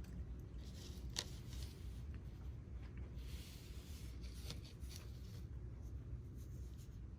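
Small rustles and sharp clicks of monofilament fishing line and a hook handled by fingers while a knot is tied, the sharpest click about a second in and a soft rustling hiss midway, over a steady low hum.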